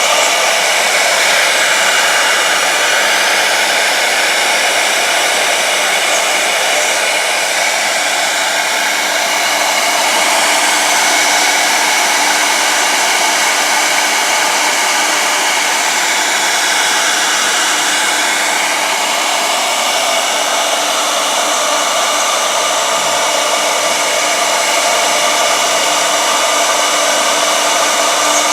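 Two-spindle 1325 CNC router running steadily: a continuous high whine of several steady tones over a loud rushing noise, drifting slightly in pitch.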